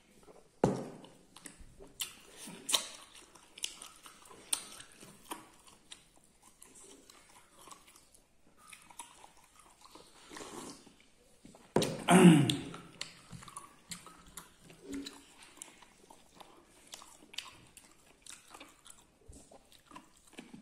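A person chewing and eating, with many small mouth clicks. A louder burst comes about twelve seconds in.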